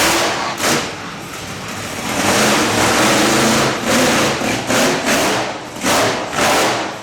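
Monster truck engine revving in short bursts about half a second apart, with one longer held rev in the middle.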